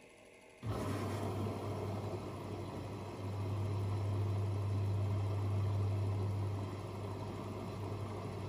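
Washing machine drain pump switching on suddenly about a second in, then running with a steady low mains hum over the noise of rushing water.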